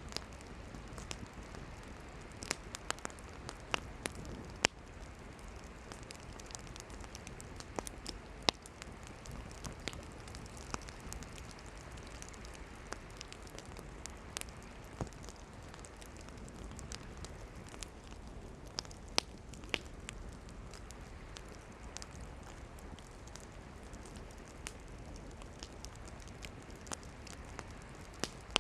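Wood campfire burning: a steady low rush of flames with irregular sharp crackles and pops from the burning firewood.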